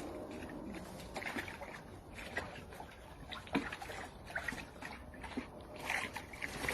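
Water in a fold-up dog paddling pool splashing and sloshing gently, with irregular small splashes and drips throughout.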